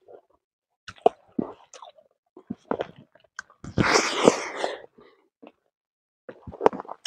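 Close-up mouth sounds of a man eating rice and roasted fish by hand: chewing in short clicky bursts with quiet gaps, and one louder noisy rush lasting about a second, about four seconds in.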